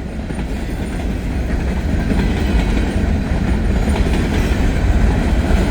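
Heavy freight train rolling past at close range, a dense low rumble of wheels and cars that grows gradually louder.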